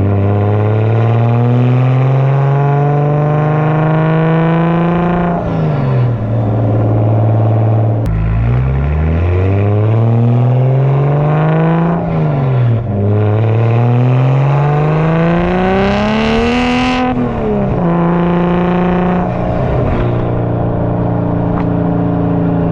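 The single-turbo BMW N54 3.0-litre inline-six is accelerating hard. Its revs climb and drop sharply several times, as at gear changes, then hold steady over the last few seconds.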